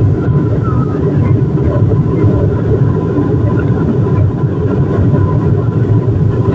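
Airliner cabin noise: the steady, loud low rumble of the engines and rushing air heard from inside the passenger cabin, with a faint steady whine above it.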